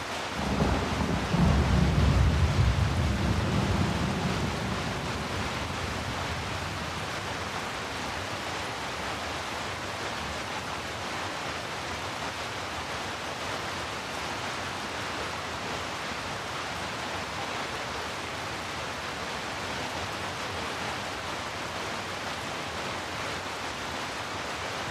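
Steady rain falling, with a low roll of thunder that swells about a second in and dies away over the next few seconds.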